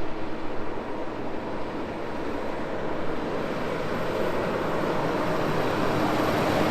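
Semi truck on the highway, its engine and tyre noise growing steadily louder as it approaches.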